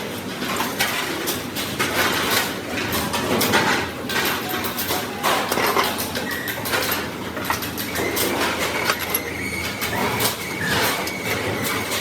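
Sheet metal for a motorcycle fuel tank being worked with hand tools: a busy run of irregular light metallic knocks and clatter. A faint steady whine joins in partway through.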